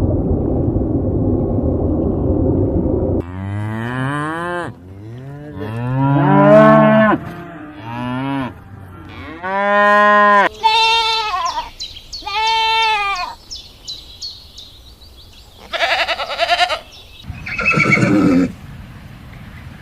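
Cattle mooing: a run of about six drawn-out moos, some rising and falling in pitch, after a low rumbling noise in the first three seconds. Near the end come two shorter, harsher animal calls.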